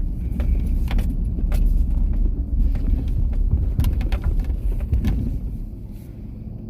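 Pickup truck driving slowly, heard from inside the cab: a steady low engine and road rumble with scattered clicks and rattles, easing off a little near the end.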